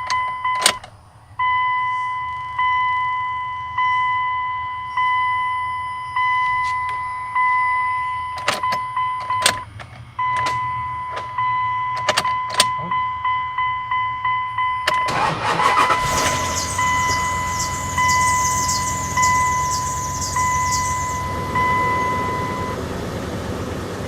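A dash warning chime dings about once a second, with a few key clicks. About fifteen seconds in, the 2001 Dodge Ram 1500's engine cranks, catches and keeps running on its newly fitted fuel pump. The chime goes on faster over the running engine and stops near the end.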